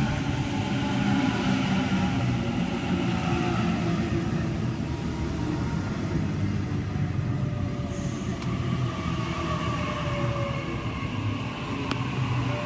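Sydney Trains Waratah (A-set) electric train running through the platform, a steady rumble with a faint whine that falls slowly in pitch.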